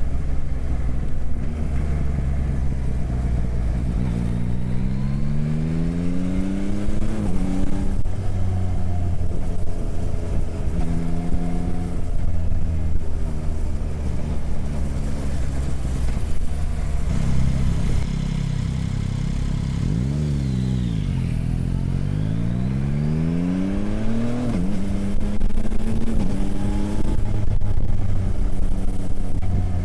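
Motorcycle engine running under way, with its pitch climbing as it accelerates about four seconds in, then dropping and climbing again around twenty seconds in.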